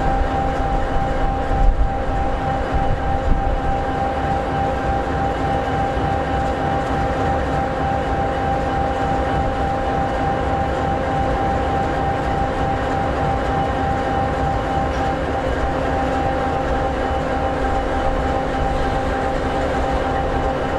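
An EMD 16-710G3B two-stroke V16 turbocharged diesel in an SD60E locomotive, idling steadily: an even low rumble with a few constant whining tones over it.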